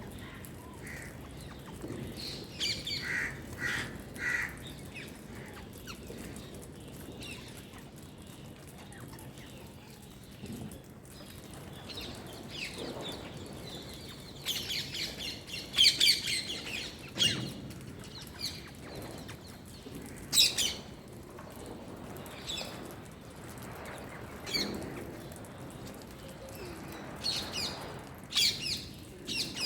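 Pet Indian parakeet chirping and squawking in scattered bursts of shrill calls, loudest about halfway through.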